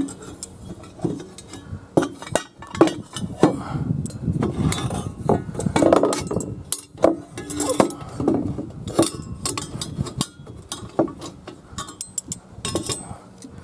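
Irregular metallic clinks and clanks as a 2.5-inch mandrel-bent exhaust crossover pipe is handled and unpacked, its pieces knocking against each other and the packaging.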